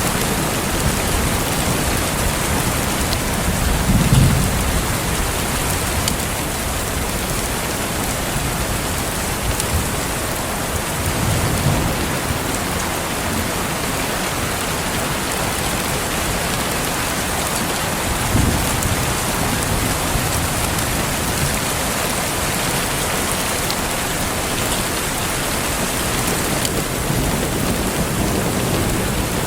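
Steady heavy rain falling, with a few low rumbles of distant thunder, the clearest about four seconds in and again a little past eighteen seconds.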